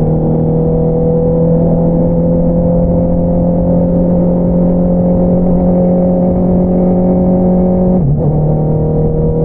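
Honda CBR650R inline-four through an Akrapovič single-outlet exhaust, pulling under steady throttle with the engine note rising slowly. About eight seconds in, the note dips sharply and comes back slightly lower, as in an upshift.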